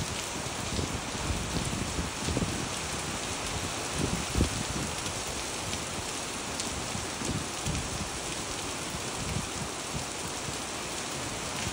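Rain falling onto wet pavement and shallow puddles: a steady, dense hiss of splashing drops, with low rumbles that come and go.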